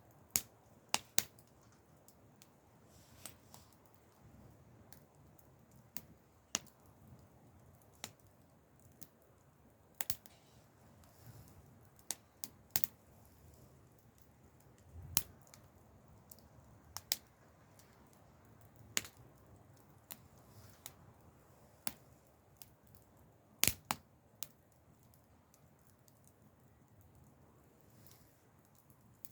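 Wood fire crackling, with sharp irregular pops and snaps every second or two over a faint low rumble of burning.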